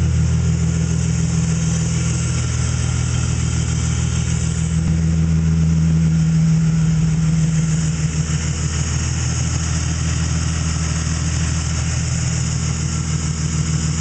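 BMW M50 inline-six idling through Raceland headers and a straight-pipe exhaust, still in its cold-start warm-up after sitting a week. The idle note shifts about halfway through and runs a little quieter after.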